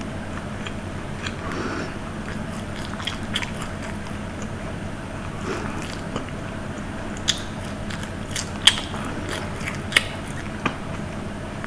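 Close-miked eating: a person chewing and biting food, with scattered sharp crunchy clicks that grow more frequent and louder in the second half, over a steady low hum.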